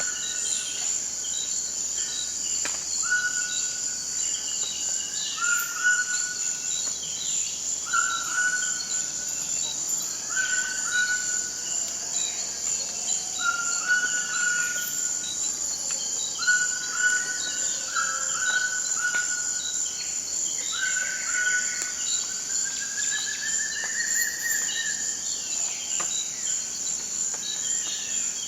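Forest ambience: a steady high insect drone, with birds calling over it. One bird repeats a short whistled note about every two seconds, and other birds chirp more faintly in between.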